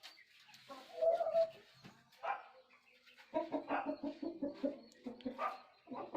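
Parrot-beak aseel rooster clucking: a couple of short calls, then from about three seconds in a rapid run of clucks, roughly six a second.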